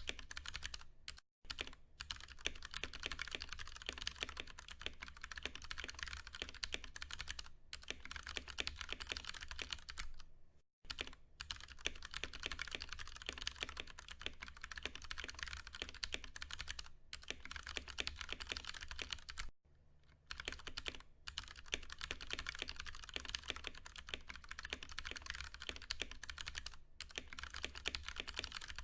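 Fast, continuous typing on a Ducky One 2 Mini mechanical keyboard with Cherry MX Brown switches: a dense run of key clacks broken by a few short pauses.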